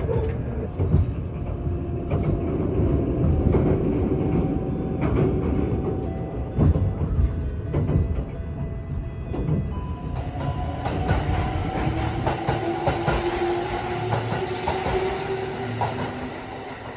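Kintetsu electric train running on rails, heard from inside the carriage: a steady rumble with clicks from the rail joints. About ten seconds in this gives way to a train moving alongside a station platform, with a steady motor whine and a hiss that grows and then fades near the end.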